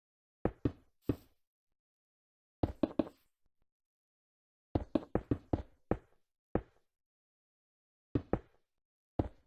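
Sharp knocks of something hard being struck, coming in short clusters of two to six with dead silence between them.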